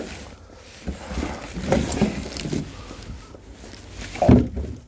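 Split firewood being handled and stacked: irregular wooden knocks and thuds, the loudest a heavy thud about four seconds in.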